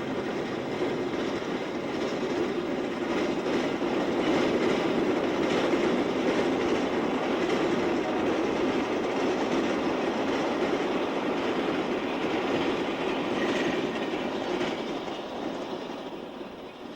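A train of passenger cars rolling past on the rails, pulled slowly by a switcher, with steady wheel noise that builds, holds, and fades away over the last few seconds.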